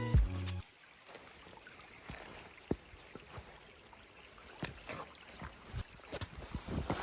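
Music cuts off about half a second in; then faint, irregular footsteps and small knocks of a person walking outdoors.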